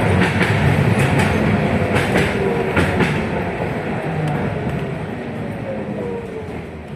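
Interior of a 71-619KT tram car running on rails, with wheels clicking over rail joints under steady rumble. The noise fades as the tram slows, and an electric whine from the traction equipment falls in pitch during the second half.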